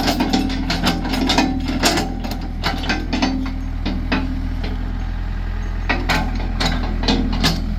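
Backhoe engine running steadily under load while its bucket and steel linkage clank and knock irregularly, with a quieter spell midway and a run of knocks near the end.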